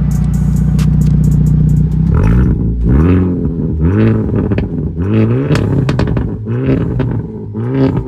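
Hyundai Elantra N's turbocharged 2.0-litre four-cylinder idling through a new aFe Takeda cat-back exhaust. About two seconds in it is blipped in a run of short revs, roughly one a second, each rising and dropping back toward idle.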